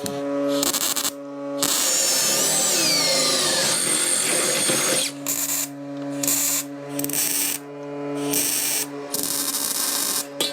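A power tool running in bursts, one long run of about three seconds near the start with a whine that rises and falls, then shorter bursts, over background music.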